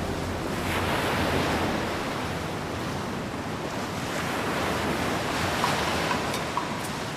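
Ocean waves washing onto a shore, the surf swelling twice.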